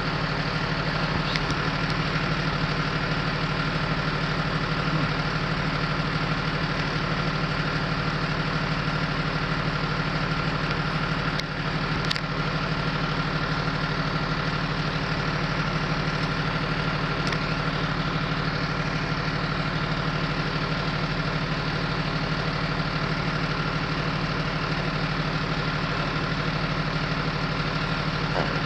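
The engine of a parked emergency vehicle idling steadily, a constant low hum with a thin steady whine above it. A brief click sounds about twelve seconds in.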